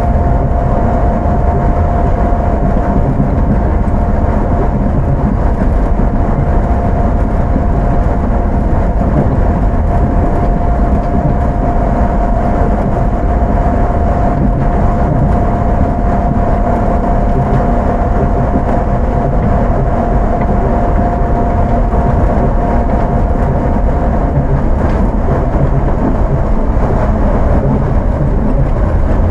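Onboard running sound of an Astram Line 6000 series rubber-tyred automated guideway train, steady rolling noise with a steady whine from its armature thyristor chopper control. The whine fades out about four-fifths of the way through while the running noise carries on.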